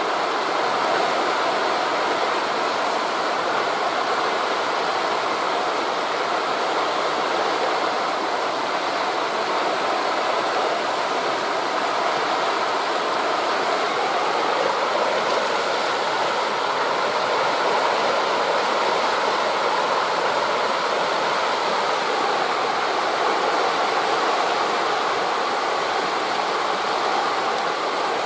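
Steady rushing of wind through forest leaves and the surf of waves on a beach, blended into one even noise.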